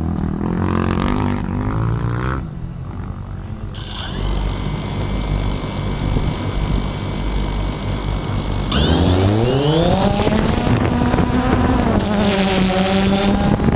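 Motocross bike engine running, revving up about nine seconds in and holding a high buzzing pitch, with a brief dip near the end.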